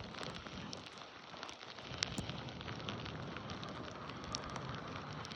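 Snowstorm ambience: a steady hiss with many irregular crackling ticks of snow and ice.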